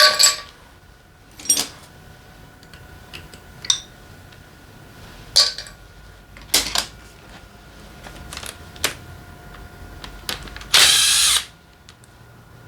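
Metal tools and engine parts clinking and knocking several times during motorcycle engine disassembly, then a short burst from a power tool near the end.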